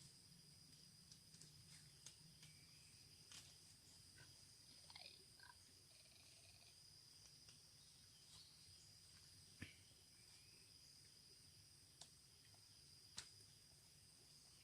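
Near silence with faint forest night ambience: insects keep up a steady high-pitched drone, broken by scattered soft clicks and a few short chirping calls about five seconds in.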